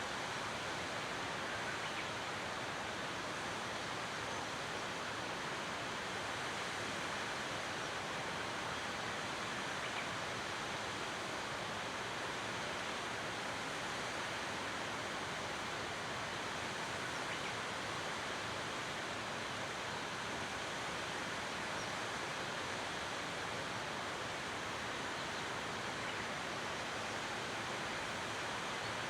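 Waterfall: the steady, unbroken noise of falling water.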